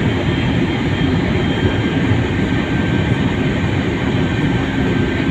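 Steady, loud rumbling cabin noise of an airliner from engines and airflow, with a faint steady high tone above it.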